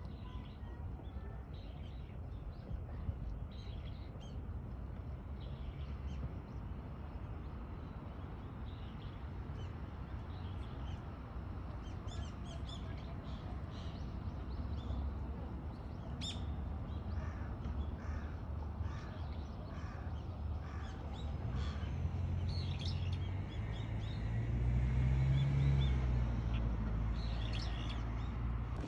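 Birds calling outdoors: scattered short calls and a run of about five evenly spaced harsh caws in the middle, over a steady low rumble that grows louder near the end.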